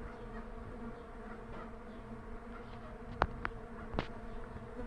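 Many Melipona quadrifasciata (mandaçaia) stingless bees buzzing in flight around their hive box, a steady hum, the sign of a strong, busy colony. A few short sharp clicks come about three and four seconds in.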